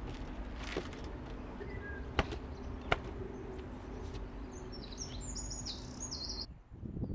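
Birds chirping over a steady low hum, with two sharp clicks; the sound drops off suddenly near the end.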